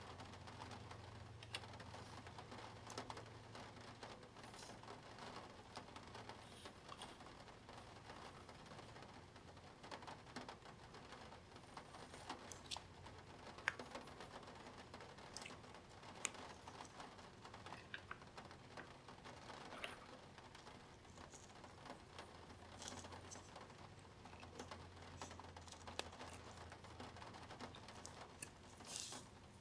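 Plastic Spirograph pieces being handled: faint, irregular small clicks and taps, with one louder click about halfway through.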